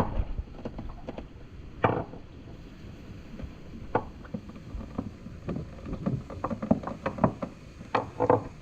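Garfish backbone cracking and crunching as the fish is rolled and pressed flat to crush the bones: irregular sharp clicks and cracks, a few louder snaps, over a low rumble.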